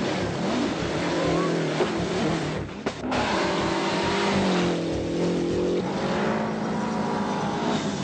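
Lancia Delta HF Integrale rally car's turbocharged four-cylinder engine at full throttle, revving hard through the gears. It breaks off briefly about three seconds in, then climbs steadily in pitch and drops sharply at a gear change near six seconds.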